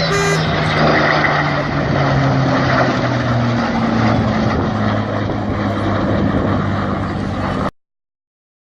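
Propeller aircraft engines running loud and steady in a flypast, their low engine note sinking slowly in pitch as the plane passes. The sound cuts off abruptly near the end.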